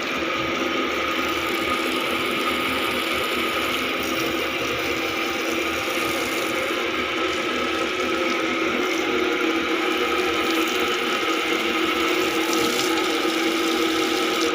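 Washing machine running, a steady mechanical hum with several fixed tones.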